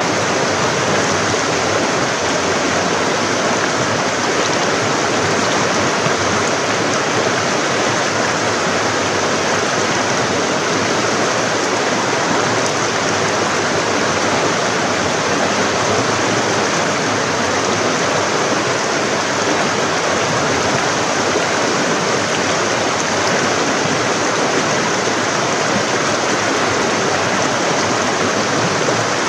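Forest stream flowing: a steady, loud rush of water over rocks, with no breaks.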